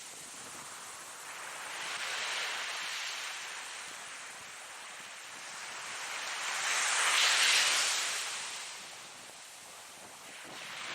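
Ocean waves breaking and washing on a shore, rising and falling in a slow rhythm: a smaller wave about two seconds in, the biggest about seven seconds in, and the next one building near the end.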